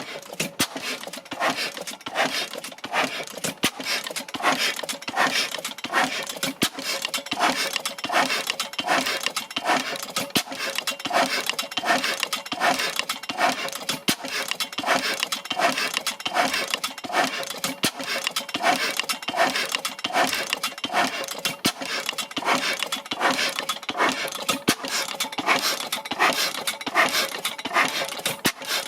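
Blackstone 3hp single-cylinder oil engine running at a steady, even pace, with a regular clatter of sharp knocks from its working parts.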